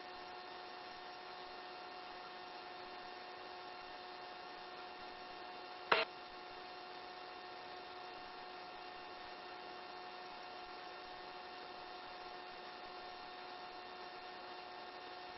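Steady low electrical hum with a few faint steady tones on a helicopter's intercom audio feed, with one short click about six seconds in.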